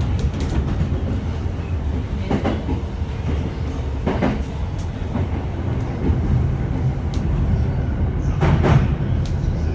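Running noise heard inside a JR East E231-1000 series commuter train car: a steady low rumble, with a few wheel knocks over rail joints, the strongest about two, four and nearly nine seconds in.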